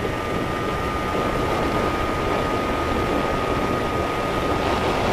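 A skiff's motor running steadily under way, mixed with the rush of wind and water past the moving boat, with a thin high steady whine that fades near the end.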